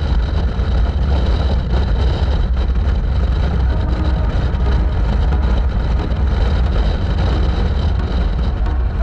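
Motorcycle running on the road during a ride, a steady loud rumble of engine and road noise.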